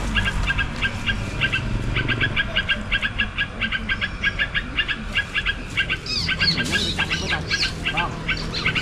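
A bird calling, with a fast, steady chatter of short repeated notes. A few higher, sliding calls join about six to seven seconds in.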